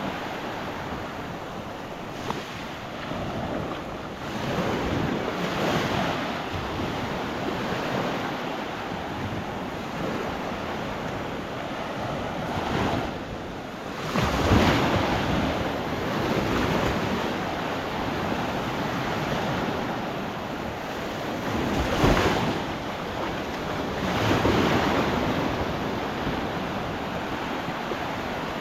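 Gulf surf washing onto a sandy beach, with wind on the microphone. The noise rises and falls in swells, loudest about halfway through and twice more in the last third.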